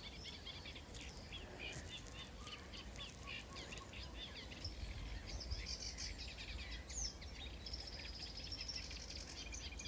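Reed warbler singing from the reeds: a fast, repetitive, chattering song that sounds quite robotic, with higher, harsher notes joining about halfway through. It is the territorial song that reed warblers give in spring while pairing up and claiming a patch.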